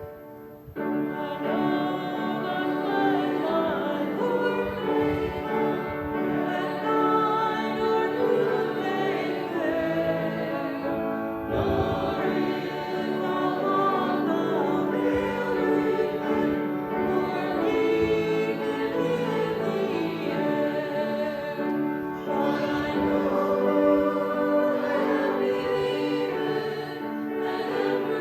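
A congregation sings a hymn together in long held phrases, with brief pauses between lines about 11 and 22 seconds in.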